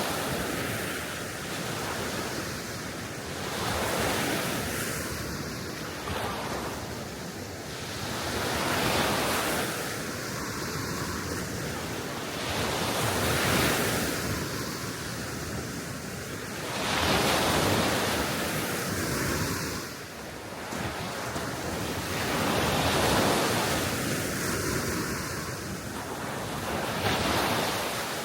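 Small waves breaking and washing onto the Baltic Sea shore, swelling and fading every few seconds, with wind blowing over the microphone.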